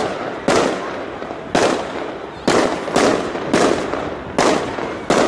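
Aerial firework shells bursting in a rapid barrage: about seven sharp bangs, one every half-second to second, each trailing off in a fading echo.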